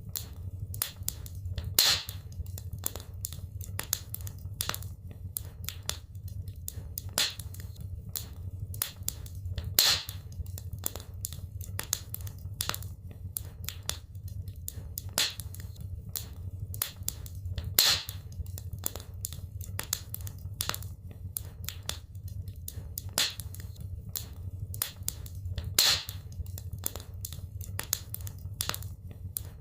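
Wood fire crackling and popping in a fireplace over a steady low rumble of the flames, with a louder pop about every eight seconds.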